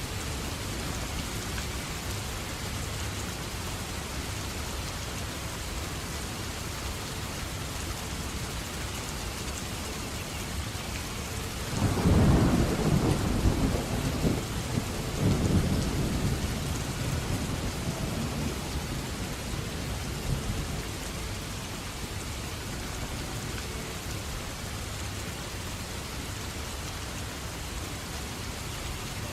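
Steady heavy rain falling, with a long peal of thunder rolling in about twelve seconds in, swelling twice and dying away after several seconds.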